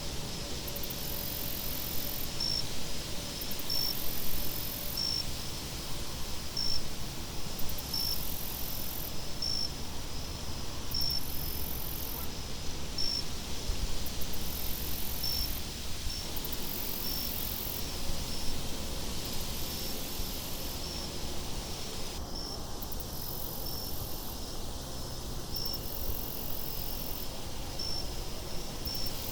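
Crickets chirping in a steady repeating pattern, with a high pulsing trill, over a low wind rumble.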